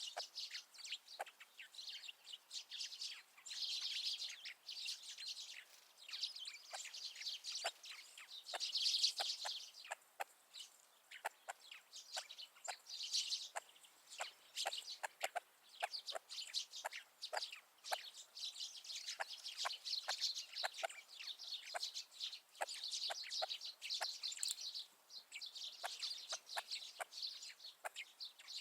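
A flock of grey partridges clucking softly among themselves, mixed with the chirping of small winter birds. The calls overlap in a continuous busy chatter of short, quick notes.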